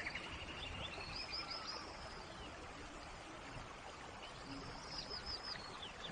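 Steady rain hiss with birds calling over it: a quick series of short chirping notes about a second in, and a similar series about five seconds in.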